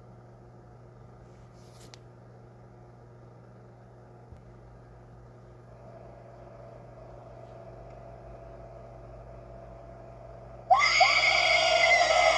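Low steady hum for most of the time, then a little under eleven seconds in a sudden loud, shrill scream with a wavering, swooping pitch begins, imitating a monster's scream.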